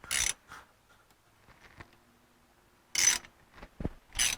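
Hand ratchet wrench clicking in three short strokes, tightening a plug or bolt on a differential, with a low knock just before the last stroke.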